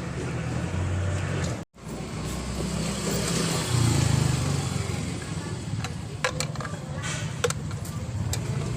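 Motor vehicle running, a low hum that rises and falls in pitch, with a few sharp clicks in the second half.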